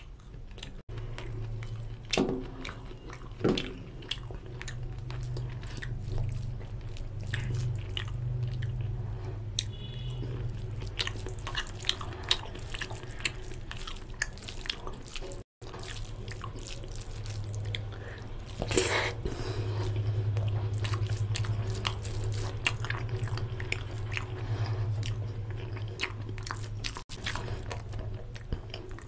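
Close-miked eating sounds of a person eating mutton curry and yellow pulao by hand: chewing, wet mouth clicks and the squish of fingers mixing rice with gravy. Many short clicks throughout, with a few louder ones and a louder noisy burst about two-thirds of the way in.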